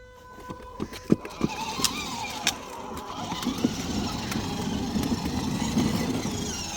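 Kids' 12 V electric ride-on truck on the move, its motors and plastic wheels rumbling over the ground. A few sharp clicks come first, then the rumble builds from about three seconds in.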